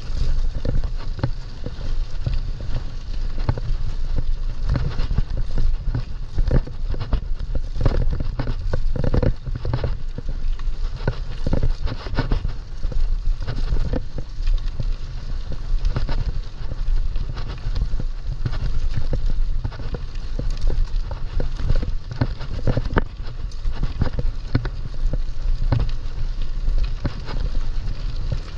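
Mountain bike riding over rough ground: a continuous irregular rattling and knocking of the bike, with a steady low rumble of wind on the microphone.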